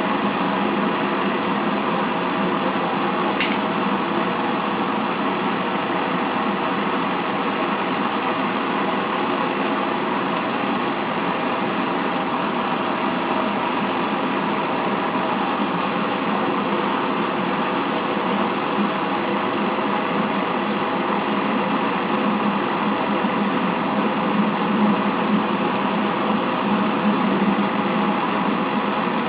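Small machine running steadily with an even mechanical hum, with one brief tick about three and a half seconds in.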